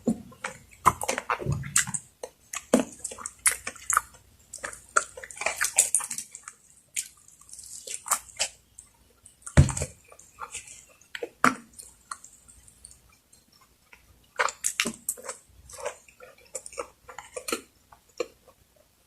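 Close-miked eating: wet chewing and lip smacking in quick irregular clicks, with a single heavier thump about ten seconds in.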